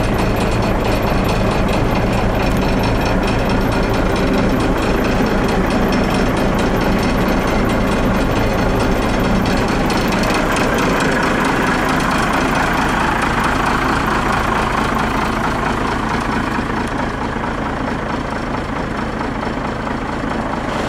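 Cummins diesel engine of a 1998 Freightliner truck idling steadily with a diesel knock. About ten seconds in the deep rumble thins and a hiss comes up for a few seconds.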